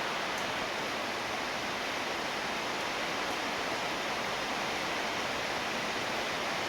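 Steady rainfall: an even, unbroken hiss of falling rain, with a few faint ticks of single drops.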